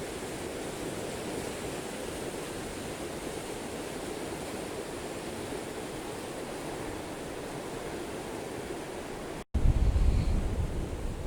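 Steady rushing of water. About nine and a half seconds in, after a brief break, wind buffets the microphone with a louder low rumble.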